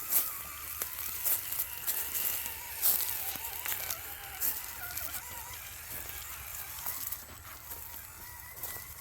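Small electric motor and drivetrain of an RC crawler whining, the pitch wavering up and down as the throttle changes, with scattered clicks and ticks over it.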